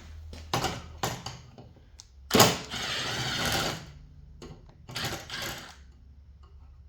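Handheld power driver run in two short bursts, backing out screws, with a few sharp clicks of metal parts before the first burst.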